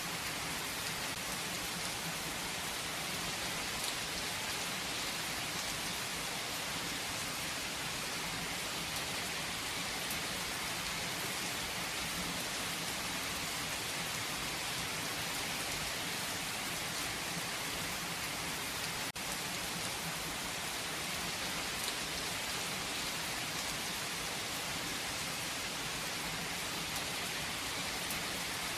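Steady rain falling: an even, unbroken hiss with fine pattering of drops, holding the same level throughout.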